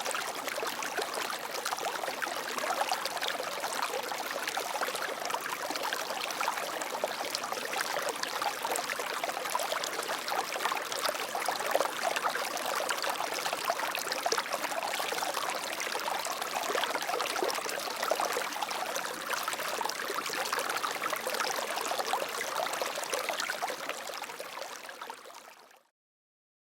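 Flowing water, a steady splashing rush like a stream, fading out over the last couple of seconds and then cutting off.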